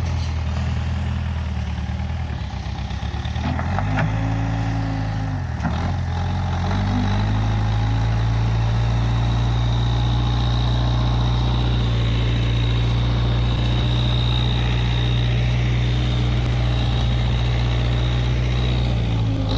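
Case 580G backhoe loader's engine running; its speed dips and recovers a few seconds in, then it holds a steady, slightly louder note.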